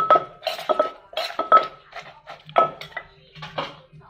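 Pestle and spoon knocking and clinking in a mortar as papaya salad is mixed, about two or three strokes a second, many with a short metallic ring. The strokes thin out after about two seconds.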